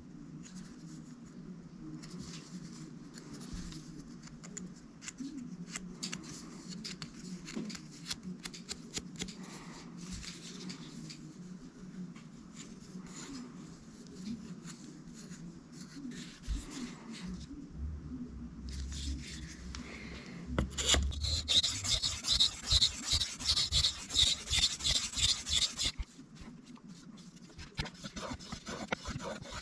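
Steel knife blade scraping in repeated sharpening strokes across a diamond sharpening plate. The strokes are faint at first, then come louder and quicker for several seconds about two-thirds of the way in.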